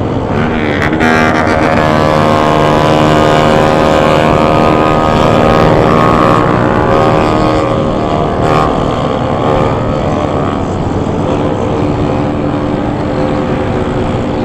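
Motorcycle engine running under way. It rises slightly in pitch about a second or two in, then holds a steady pace and eases off a little later on.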